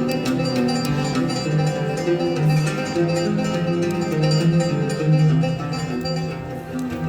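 Oud playing a melody of plucked notes.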